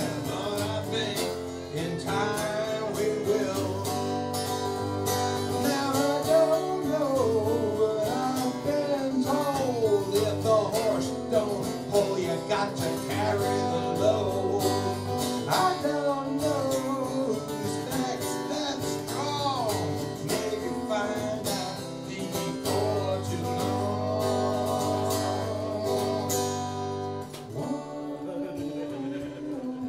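Acoustic guitar played live, strummed and picked over a steady low bass line, in an instrumental stretch of a song.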